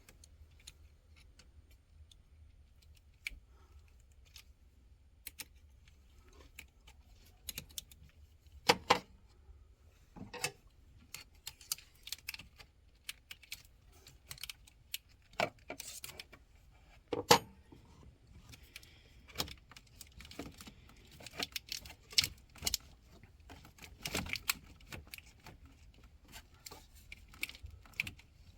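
Irregular metallic clicks, clinks and a few sharper knocks of hand tools and hardware being worked around a car battery and its terminals.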